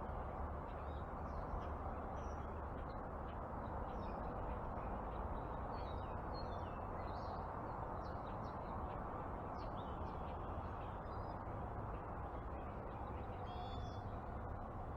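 Wild birds chirping and calling on and off over a steady low background rush, with a louder call near the end.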